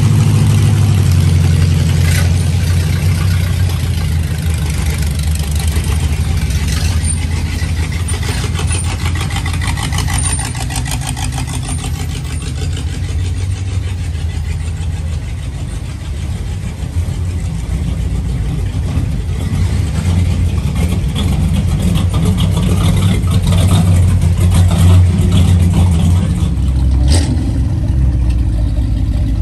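Hot rod engine running with a low, steady exhaust rumble, easing off somewhat around the middle and growing louder again later on.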